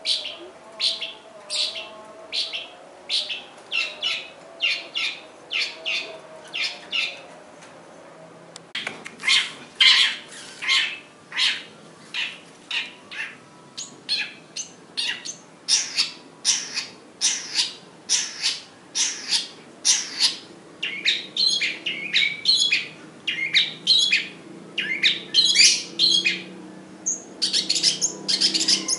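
Caged long-tailed shrike (pentet) singing in a rapid series of short repeated notes, about two a second, pausing briefly about eight seconds in and then going on faster and denser.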